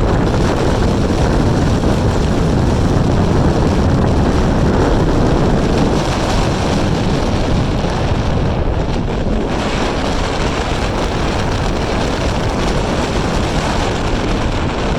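Loud, steady wind buffeting the microphone: a low, rumbling rush with no clear tones in it.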